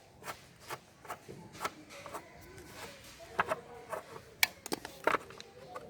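Flat-blade screwdriver working on a Yamaha RX100's side cover to open it: a string of irregular clicks, knocks and light scrapes, with a sharp click about four and a half seconds in.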